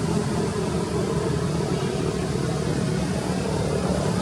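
A motor vehicle engine running steadily, with a low rumble.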